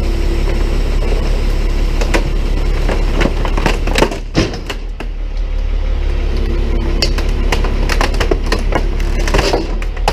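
Tow truck engine running steadily while the boom drives a can-crusher attachment down onto trash in a can, with plastic cracking and crunching under the press several times, the strongest cracks about four seconds in and again near the end.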